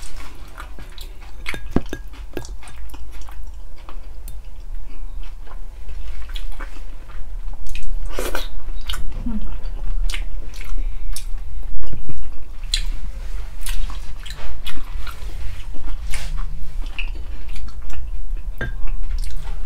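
Close-miked eating of stewed pork feet (balbacua): wet chewing and lip smacking with many short sharp clicks, over a low steady hum.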